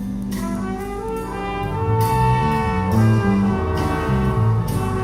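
Live big band playing jazz: a brass section carries a melodic phrase over a walking bass line, between the vocal lines of a song.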